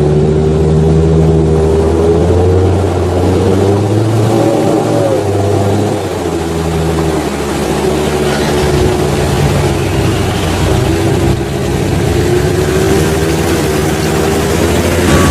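Off-road 4x4's engine running, its pitch rising and falling a little as the throttle changes.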